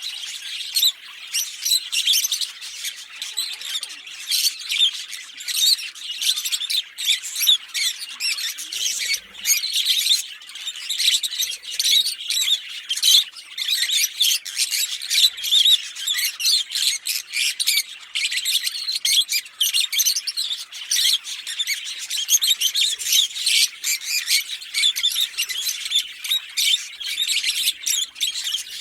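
A pair of Fischer's lovebirds singing and chirping, a rapid, unbroken stream of high-pitched chirps.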